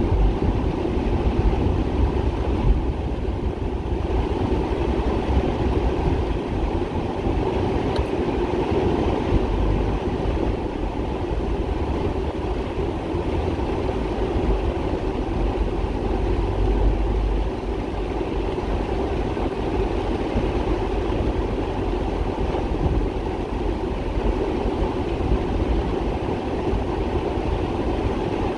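Heavy rain falling steadily on a paved street, a constant hiss with a low rumble underneath.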